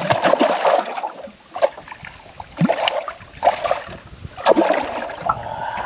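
Water splashing with irregular sharp knocks and clatters as a hooked carp thrashes at the surface beside a kayak.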